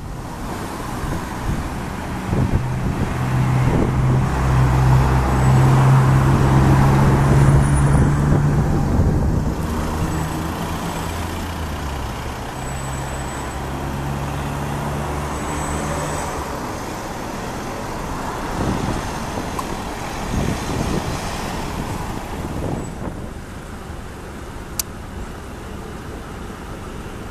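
Road traffic: a heavy vehicle's engine hums low and steady through the first half, shifting pitch a few times, while cars pass. The hum fades after about seventeen seconds, leaving lighter passing traffic, with a sharp click late on.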